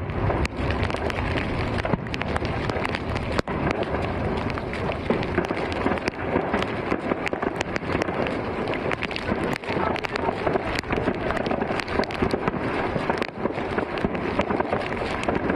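Fireworks going off continuously, a dense run of sharp pops and crackles over a steady rushing background.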